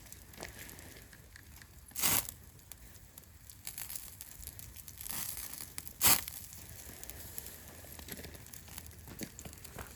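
Wood fire crackling with irregular small pops, and two short, louder noisy bursts about two and six seconds in.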